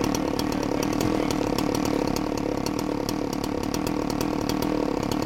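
Two-stroke saw running steadily, cutting a ventilation opening in a roof, with many sharp irregular ticks over the engine note.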